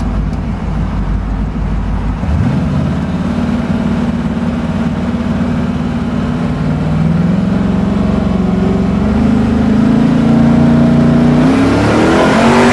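Twin-turbocharged V8 of the F-Bomb Camaro heard from inside the cabin, rumbling at low revs, then pulling harder from about two seconds in, its note climbing in steps as the car accelerates. Near the end the revs rise sharply and a rising rush of noise joins in.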